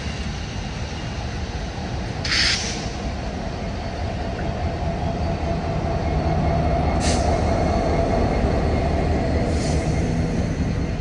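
Union Pacific Big Boy 4014, a huge articulated steam locomotive, running close by with a heavy low rumble. There is a short hiss about two seconds in and briefer ones later. The rumble grows louder about halfway through as it draws nearer.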